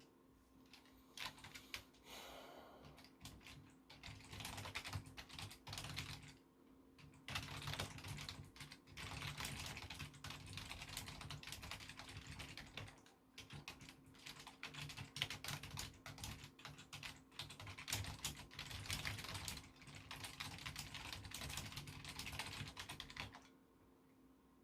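Typing on a computer keyboard: fast runs of key clicks broken by short pauses, stopping about a second before the end.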